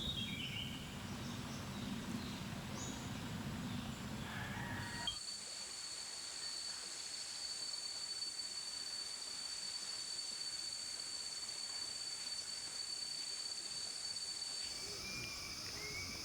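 Forest ambience. For the first five seconds a few short, high bird chirps sound over a low rumble. After a sudden change, a steady high-pitched insect whine with hiss carries on for about ten seconds, and a few more chirping notes come in near the end.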